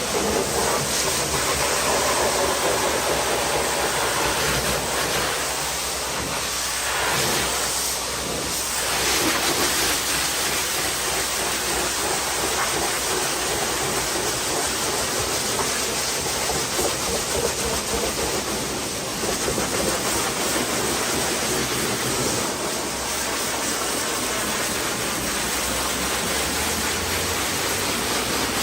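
High-pressure washer spraying water against a car's bodywork: a steady hiss and spatter with small swells as the jet moves.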